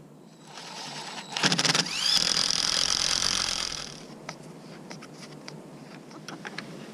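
Power drill driving a tow-point eye bolt into a wooden frame: a short rattling burst, then the motor whine rises and runs for about two seconds before stopping, followed by a few light clicks.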